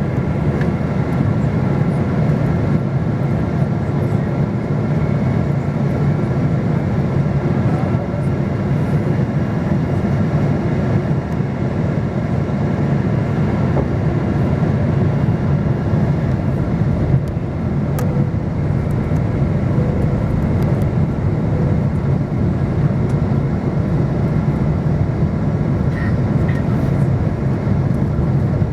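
Steady airliner cabin noise on the approach to landing: a constant low rumble of jet engines and airflow, with faint steady whine tones above it.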